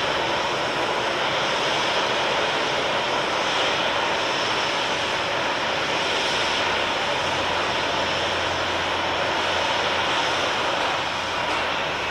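Airliner engines running close by: a loud, steady engine noise with a faint high whine that eases slightly near the end.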